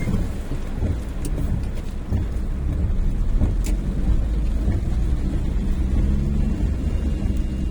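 A car driving: a steady low engine and road rumble, with a few faint short clicks.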